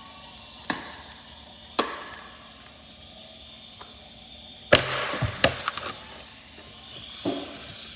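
Sharp knocks: one each about a second and two seconds in, then a quick run of louder ones about five seconds in, over a steady high hiss.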